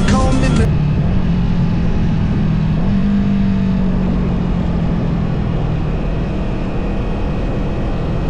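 Honda CB500F's parallel-twin engine running steadily on the move, with noise across the microphone; its pitch rises a little about three seconds in and then holds. A music track cuts off under a second in.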